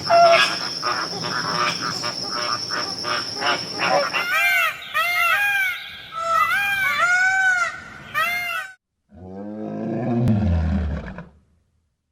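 Animal calls in three clips cut together: a rapid run of repeated calls, then a series of short calls that rise and fall in pitch, then a single low call that drops in pitch.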